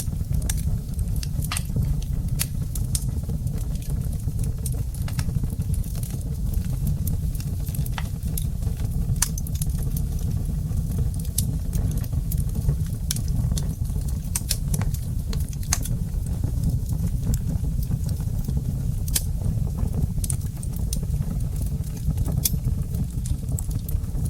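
Wood fire crackling in a fireplace: frequent sharp pops and snaps scattered irregularly over a steady low rumble.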